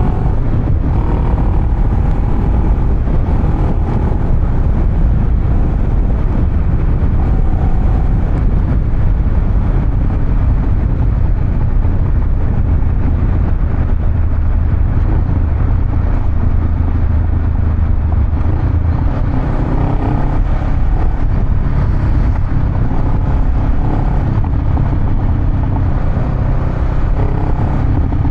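Honda Rebel 500's parallel-twin engine running through a Vance & Hines exhaust: a steady, deep, bassy rumble with no big revs.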